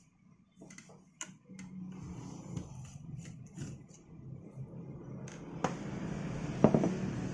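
A low steady hum that starts about two seconds in and grows slightly louder, with a few light clicks and knocks over it; the loudest knock comes near the end.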